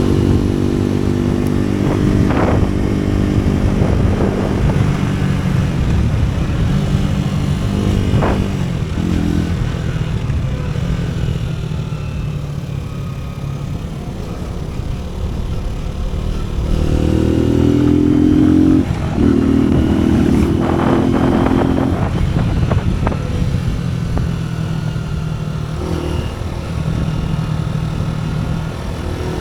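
AKT NKD 125 motorcycle's single-cylinder engine running under way, its note rising and falling as the rider works the throttle and gears. It eases off around the middle, then pulls louder and higher a little past halfway, over a haze of wind and road noise.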